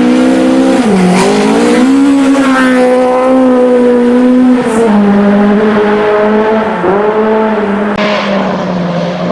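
Rally car engine held at high revs, its pitch dipping briefly about a second in and again near seven seconds as it shifts gear, stepping down a little midway and falling away near the end.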